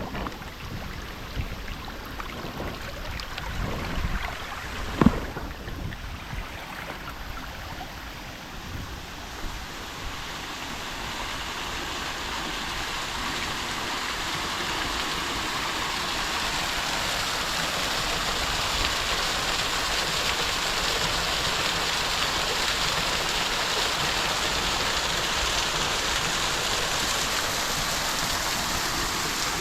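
Shallow creek water running and splashing over rocks, growing steadily louder from about ten seconds in. A single sharp knock sounds about five seconds in.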